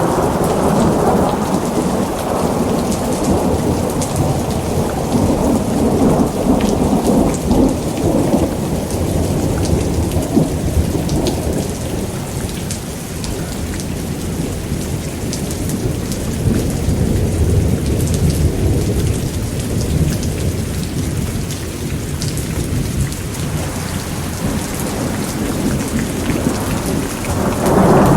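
Steady heavy rain with rolling thunder. The rumble is strong for the first several seconds, dies down through the middle and swells again near the end.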